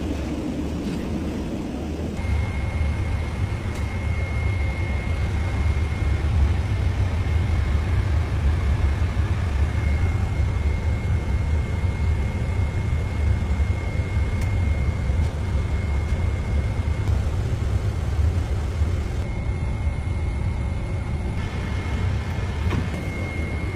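Steady, loud low rumble of a vehicle in motion, with a faint steady high whine that comes in after a couple of seconds and drops out briefly about two-thirds of the way through.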